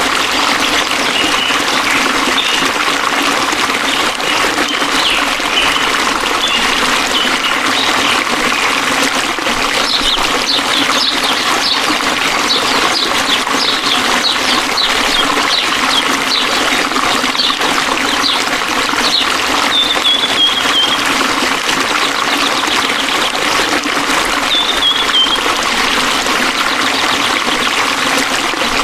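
A forest stream flowing steadily, trickling and splashing. Small birds chirp over it: a quick run of short chirps about a third of the way in, then a couple of brief falling calls.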